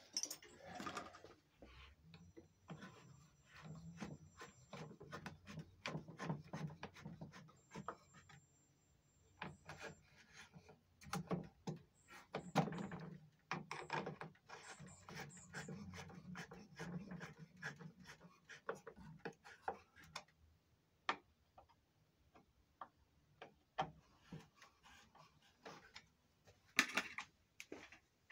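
Faint, irregular handling noises: light knocks, clicks and rubbing that come and go.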